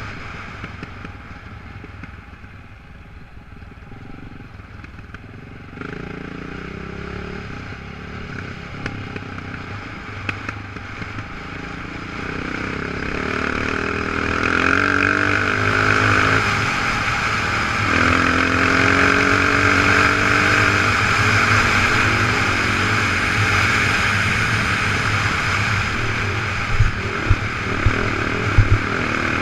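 Off-road motorcycle engine under way, its pitch rising and falling as the throttle is opened and closed, with wind rushing over the microphone. It gets louder about halfway through, and a few sharp knocks come near the end.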